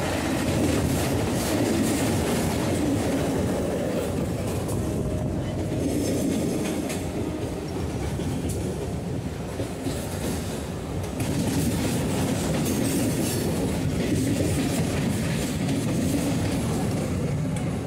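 Suburban electric local train (EMU) running along the track, heard from on board: a steady running noise with wheels clattering over the rails.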